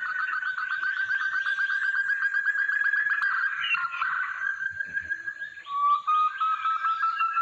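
Sumatran forest partridge call: a loud, rapid run of repeated notes, about ten a second. It breaks off briefly past the middle and starts up again near the end.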